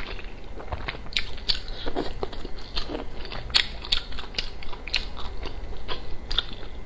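Close-miked eating of wontons (chaoshou): irregular biting and chewing with wet mouth clicks and smacks.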